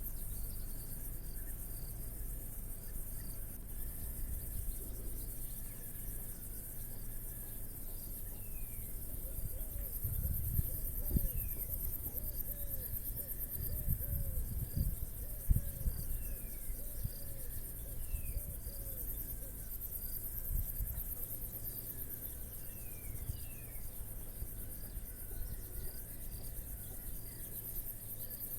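Crickets chirring in a steady high-pitched pulsing chorus. Several short falling bird whistles come through, and a quick run of low repeated calls in the middle, along with a few low bumps.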